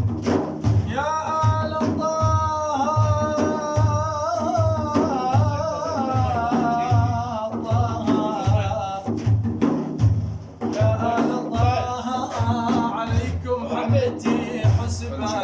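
Religious praise singing: a man's voice holds long, wavering melismatic notes over a steady drum beat of about two strokes a second. The voice breaks off briefly about ten seconds in, then resumes.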